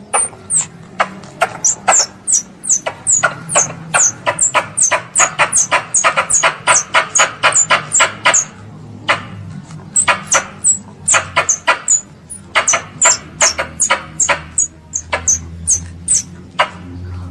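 Young squirrel's distress calls to its mother: a fast run of short, sharp, high chirps, each dropping in pitch, about three or four a second with brief pauses.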